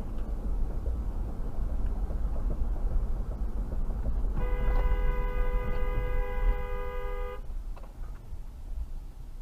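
Car horn sounding one long blast of about three seconds, starting a little over four seconds in, over a steady low road rumble.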